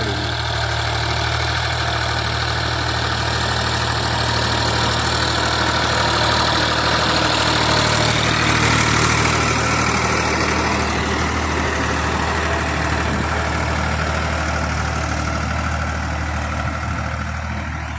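Tractor's diesel engine running steadily, growing a little louder around the middle.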